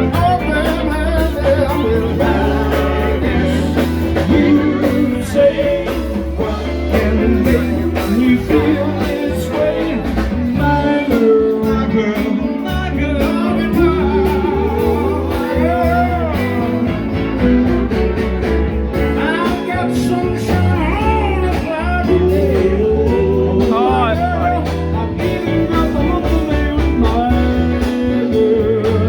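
A live band playing a blues-rock song, with a singer over electric guitar and a steady bass line.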